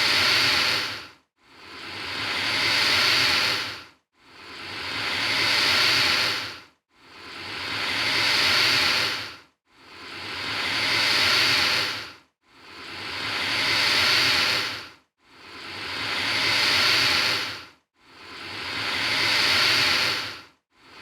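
Alligator hissing: one breathy hiss of about two and a half seconds that swells and then cuts off abruptly, repeated the same way about every 2.7 seconds, eight times over.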